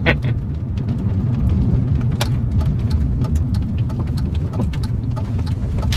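Steady car cabin noise while driving: a low rumble of engine and tyres on the road, with a few faint ticks.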